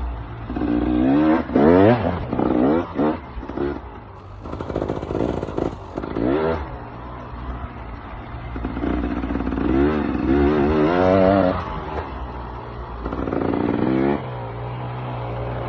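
KTM EXC 300 two-stroke enduro engine under way. It revs up in about five bursts, each rising in pitch and then dropping back, with a lower steady running note between them; the longest climb is about two-thirds of the way through.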